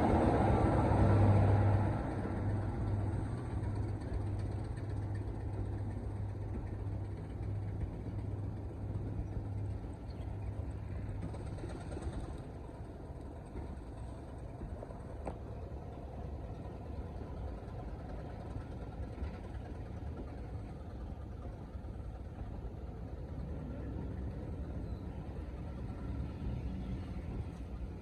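Diesel train engine running with a steady low hum. It is loud for the first two seconds, then fades, and the hum dies away after about ten seconds, leaving a faint rumble.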